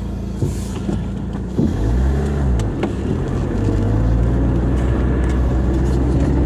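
Car engine pulling away: a few knocks, then it gets louder about a second and a half in, revs up and back down, and settles into a steady run.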